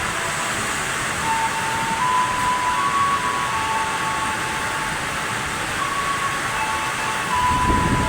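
Heavy rain falling steadily. Faint electronic tones alternate between two pitches throughout, and a brief low rumble comes a little before the end.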